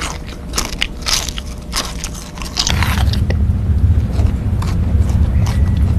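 Loud crunching bites and chewing of a crisp snack, a quick run of sharp crackles. About halfway through a steady low rumble starts and carries on.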